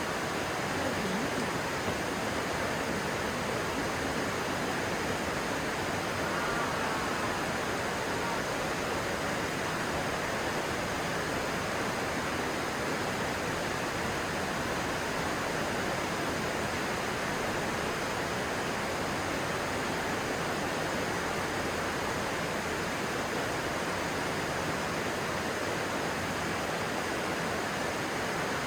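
Stream flowing steadily, an even, unbroken sound of running water.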